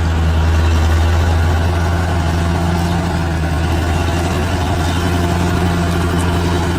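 Large bulldozer's diesel engine running steadily with an even, deep drone.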